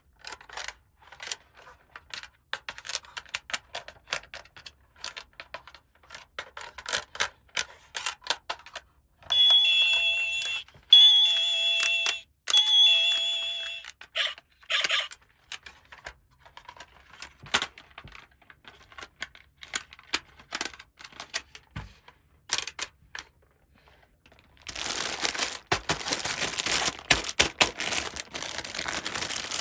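Small plastic toy parts clicking and tapping as they are handled. About nine seconds in, a toy's electronic sound chip plays a short beeping tune for about four seconds. Near the end, plastic packaging rustles and tears.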